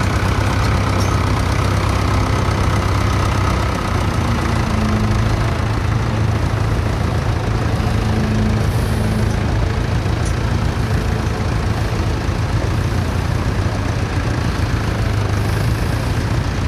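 A tractor engine running steadily with a deep, even hum.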